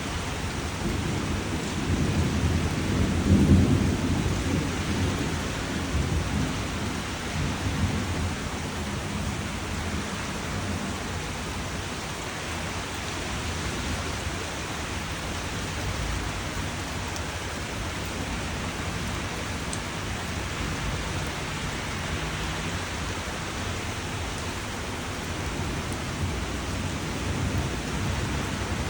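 Steady heavy rain hissing, with a deep roll of thunder that swells a few seconds in and fades over the next several seconds.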